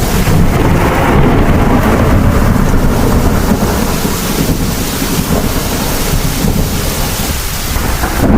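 Heavy rain with low rolling thunder, a dense rumble that swells early on and eases slightly toward the end.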